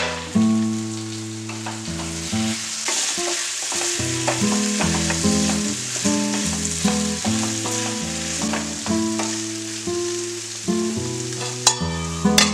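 Potato masala sizzling in a frying pan as it is stirred, with background music of changing notes.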